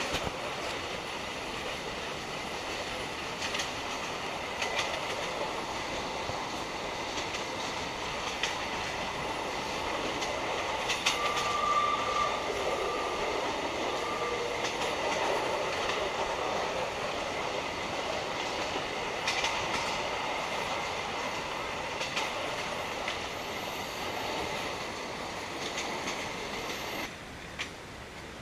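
Passenger train carriage running along the track, steady rolling rumble with sharp clacks of the wheels over rail joints every few seconds. A brief wheel squeal comes in about halfway through, and the train noise cuts off shortly before the end.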